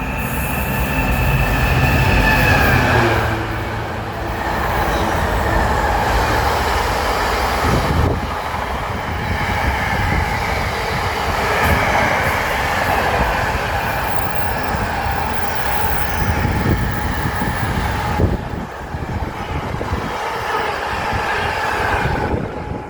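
Class 66 diesel-electric freight locomotive, with its two-stroke EMD V12 engine, passing close by; its engine is heard for the first few seconds. Then the freight wagons roll past with steady wheel-on-rail noise and high whining squeals from the wheels.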